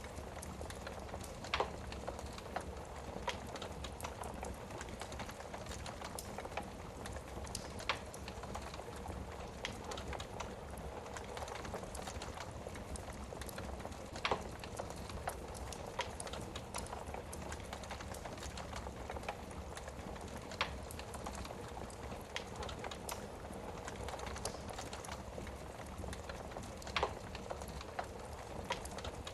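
Wood fire crackling in a fireplace, a steady hiss and rustle of burning wood with sharp pops and snaps at irregular intervals, a few standing out louder.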